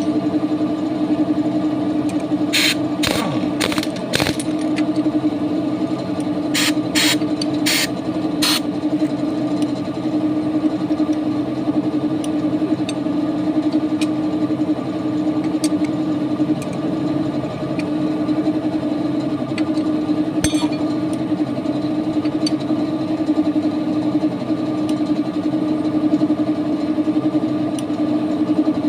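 An engine running steadily with an even drone. Near the start, two short runs of sharp clicks cut through it.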